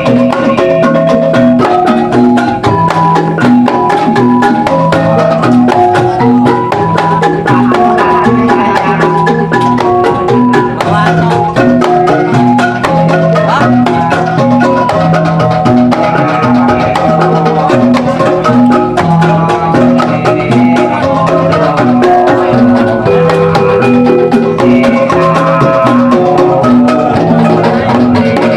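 Javanese gamelan ensemble playing jathilan accompaniment: bronze metallophones ring out a melody of repeated notes over a steady, regular beat with percussion.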